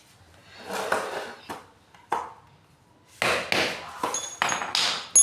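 Metal pump parts and tools being handled: a few knocks and clattering scrapes, then a bright metallic ping ringing on near the end.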